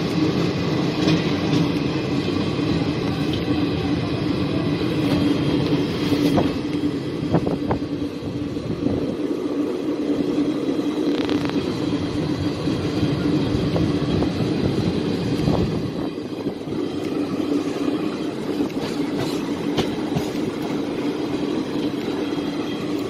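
Passenger train heard from inside the coach: a steady hum with low rumble and a few scattered clicks from the running gear.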